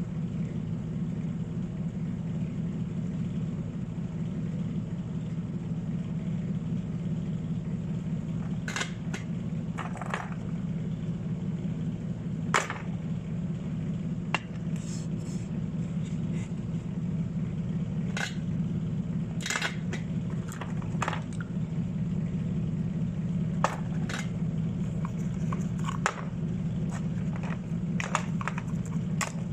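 Steady low machine hum with scattered light clicks and taps, a few at a time, growing more frequent toward the end.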